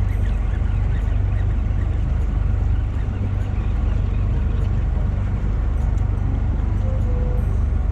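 Fishing boat's engine running, a steady low rumble with a hiss of wind and water over it.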